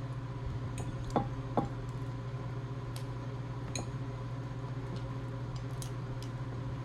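Eating a seafood boil by hand: a handful of scattered light clicks and taps of shells and dishes over a steady low hum.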